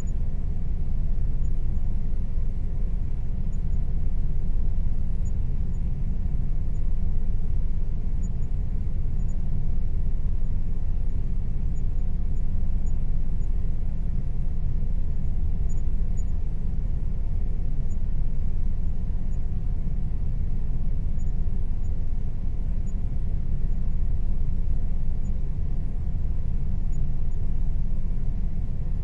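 Air conditioner running steadily: a constant low rumble with a faint, even hum above it.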